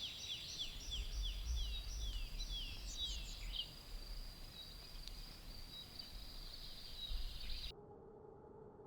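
A songbird singing a run of quick, descending whistled notes over a steady high thin tone. Near the end the sound cuts off abruptly, leaving a faint steady hum.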